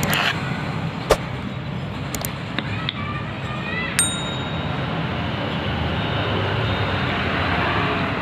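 Metal clinking during hand work on a ketinting longtail-boat propeller: a sharp knock about a second in, a few light clinks, then a single ringing clang about four seconds in, over a steady low background noise.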